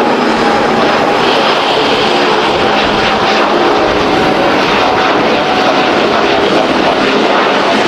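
Airbus A350-900 jetliner's Rolls-Royce Trent XWB turbofans on takeoff, a loud, steady jet noise with several steady tones running through it.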